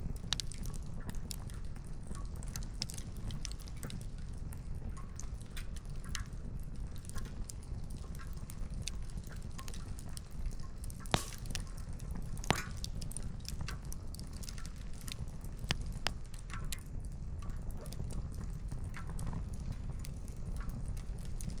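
Wood campfire crackling, with scattered sharp pops of burning firewood and two louder snaps about eleven and twelve and a half seconds in, over a steady low rumble.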